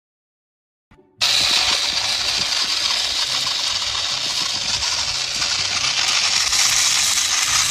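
A loud, dense hissing noise that starts abruptly about a second in, after a moment of silence, and stays steady.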